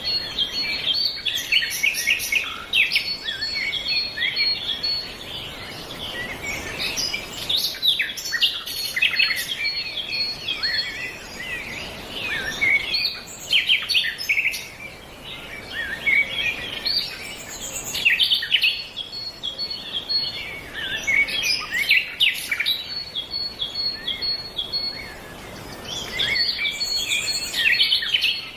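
Several songbirds singing and chirping at once, their short calls and trills overlapping, with a high note repeated in quick succession that comes and goes. A faint steady hiss runs underneath.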